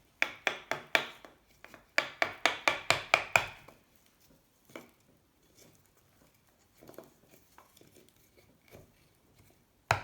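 Quick series of sharp taps, a hammer driving wooden wedges into the joint of a seized Honda C70 engine's crankcase halves to split them apart: about six taps in the first second, a second run of about eight a second later, then only a few faint knocks.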